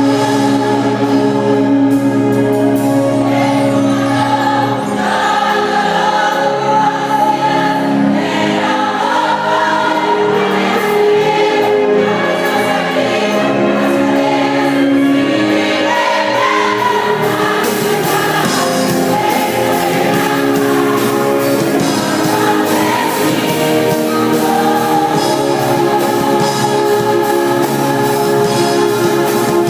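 A choir singing gospel music, loud and continuous.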